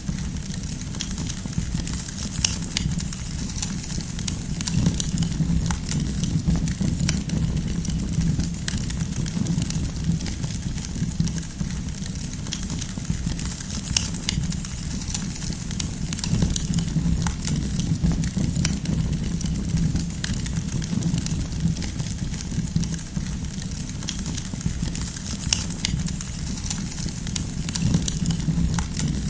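Campfire burning, with a steady low rumble of flames and frequent sharp crackles and pops of firewood.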